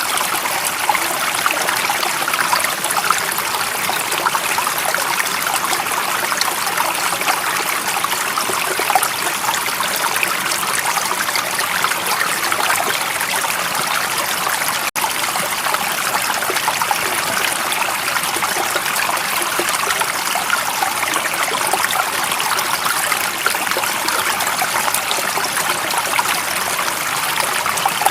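Steady running water of a stream, an even rush and trickle with no pauses except a momentary dip about halfway through.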